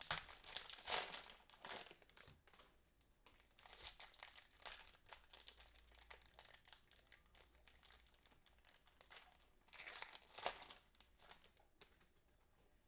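Plastic wrapper of a trading-card cello pack crinkling and tearing as it is handled and opened. The crinkling comes in several bursts: loudest near the start and again about ten seconds in, with lighter crackling in between.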